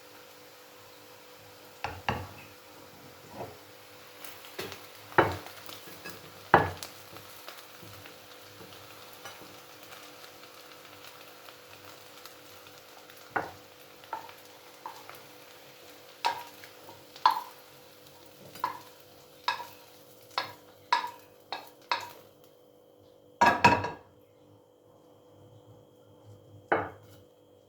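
A metal utensil clinking and scraping against a pan, in sharp taps that come about once a second for a stretch, over the faint steady sizzle of potatoes and eggs frying. The sizzle stops near the end, followed by a few loud knocks of cookware.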